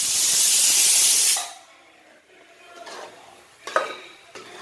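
Loud steady hiss from the cooking pot that stops abruptly about a second and a half in, followed by a few faint clinks.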